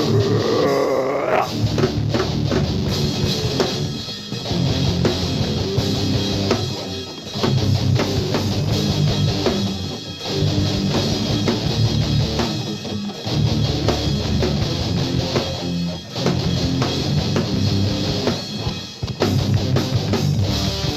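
Rock band playing an instrumental passage on electric guitar and drum kit, opening with a note that glides sharply upward. The band pauses briefly every few seconds.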